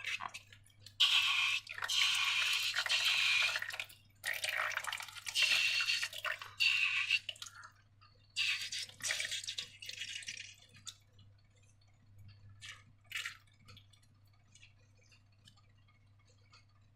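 Wet slime squelching as it is squeezed and worked, in three long bursts, followed by a few faint clicks.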